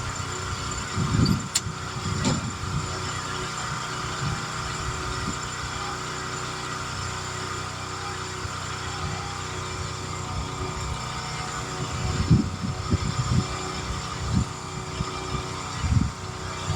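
An engine running steadily at idle, with a few dull low knocks about a second in and again near the end.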